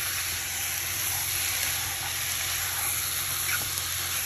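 Marinated chicken pieces sizzling steadily in hot coconut oil in a nonstick kadai as they are stirred with a plastic spatula, with a couple of faint scrapes.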